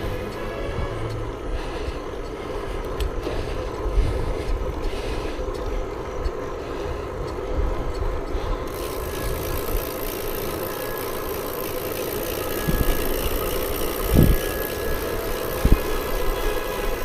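Steady wind and road noise from riding a bicycle, with a few short low thumps from bumps or wind gusts on the microphone.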